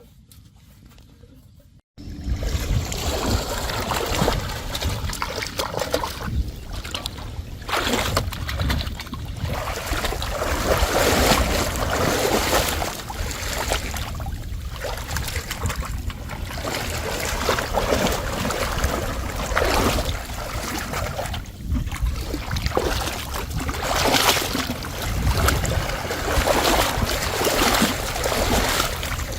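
Water splashing and sloshing in a continuous, uneven wash with a low rumble, starting suddenly about two seconds in.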